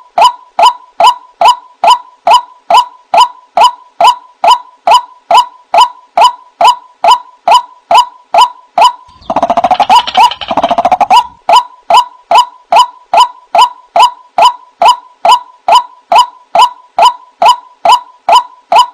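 White-breasted waterhen lure call: short, sharp notes repeated in a strict even rhythm, a little over two a second. For about two seconds in the middle, a rougher, denser burst of overlapping calls joins in.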